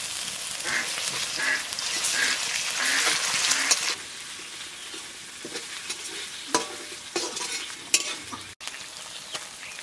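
Sliced onions and spice paste sizzling in hot oil in a metal kadai while a metal spatula stirs them, with the spatula scraping and knocking against the pan. The sizzle is loud for about four seconds, then drops quieter, with a few sharp spatula knocks in the second half.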